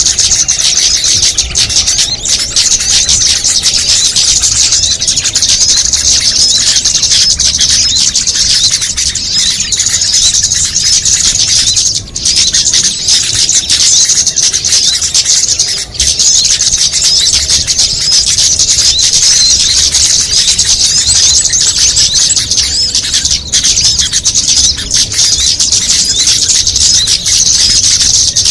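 Dense, continuous high-pitched chattering and chirping of many small songbirds, a mixed bird-luring call of the kind played to draw small birds in. There are brief breaks about twelve and sixteen seconds in.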